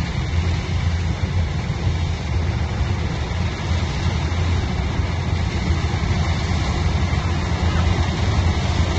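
Heavy machinery engine running steadily, a constant low drone with mechanical noise over it.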